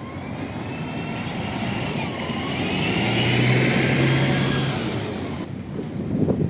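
Tram passing close by on street track: the rumble swells to a peak a few seconds in and then eases, with thin sliding squeals from the wheels over it and a steady low motor hum through the loudest part.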